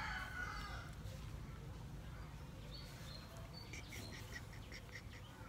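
A bird calling in a quick run of short, even chirps, about three or four a second, starting a little before four seconds in. Earlier, a fainter call trails away.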